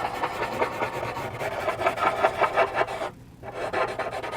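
Paper blending stump rubbing back and forth over charcoal on textured charcoal paper, in quick, rasping strokes several times a second, with a brief pause about three seconds in.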